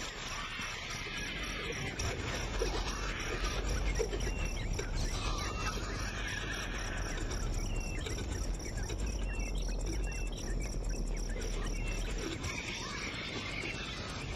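Outdoor ambience of insects chirping steadily, with short high chirps scattered through it about once a second.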